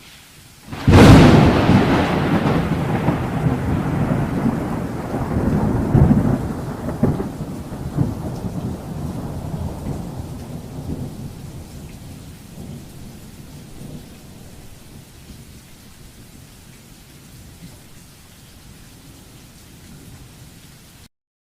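A loud thunderclap about a second in, followed by a long rolling rumble that slowly fades over the next fifteen seconds or so, with a steady hiss of rain underneath.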